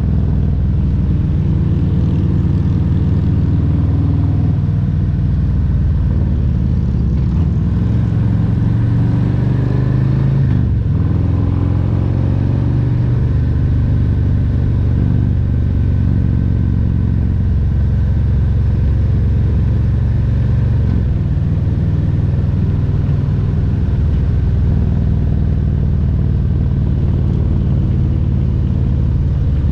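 Harley-Davidson Road Glide Special's Milwaukee-Eight 114 V-twin engine running steadily under way, its note dipping and climbing again about ten seconds in.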